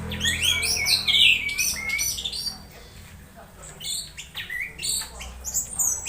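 Orange-headed thrush singing a fast, jumbled run of varied high notes for about two and a half seconds, then a few scattered short notes.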